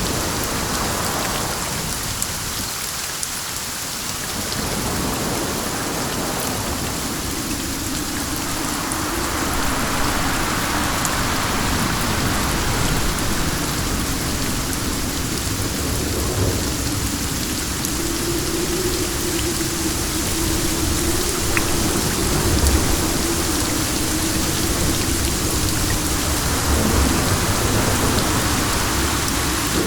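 Steady rain falling with wind, an even hiss. A low rumble swells through the middle of the stretch.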